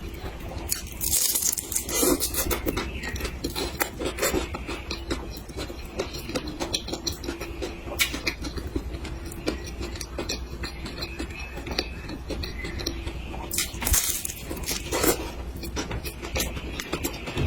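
Close-miked eating: cutlery clinking and scraping against dishes amid many small mouth clicks, with a few louder noisy bursts, one near the start and one near the end.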